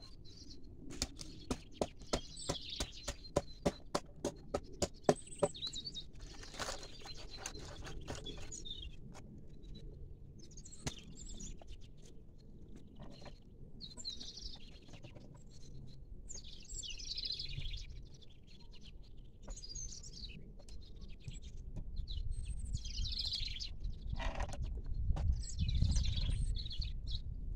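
Small birds chirping in short repeated calls. In the first few seconds there is a quick run of sharp taps, about four or five a second, and a low rumble rises near the end.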